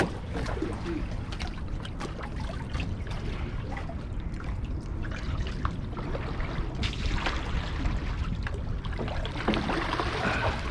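Water trickling and splashing around a kayak on a moving river, with many small, scattered drips and splashes over a steady wash of water.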